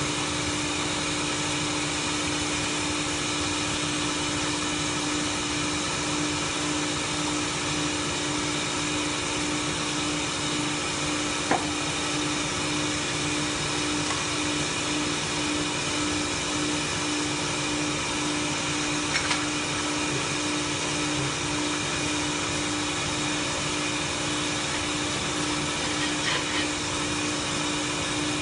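Automatic pole welding machine running: a steady mechanical hum and hiss with a constant low tone, broken by a few brief clicks.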